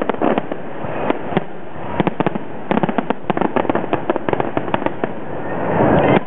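Fireworks going off: rapid strings of sharp pops, thickest through the middle, with a swell of noise that builds and stops abruptly just before the end.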